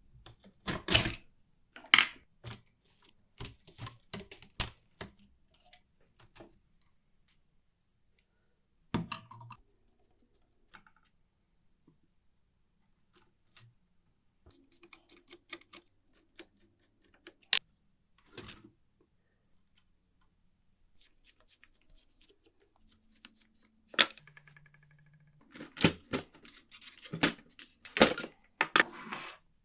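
Scattered sharp metallic clicks and clacks from the mechanism of a 1949 Olympia manual typewriter being worked and handled, with quiet gaps between and a busier run of clicks near the end.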